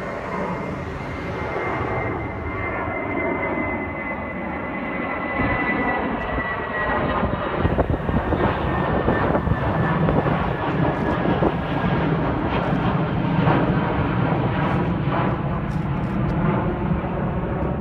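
Airplane passing low overhead, its engine noise growing louder and staying loud, with a thin high whine that slowly falls in pitch over the first several seconds.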